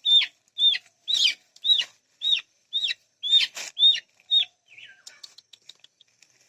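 A bird giving a run of loud, shrill calls, about two a second, each call rising and then dropping in pitch. The calls stop about four and a half seconds in, with one lower, falling note after them.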